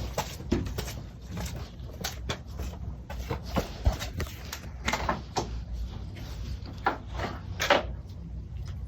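Irregular clicks, clanks and knocks of a ratchet and other hand tools being worked on a motorcycle, with one louder knock near the end.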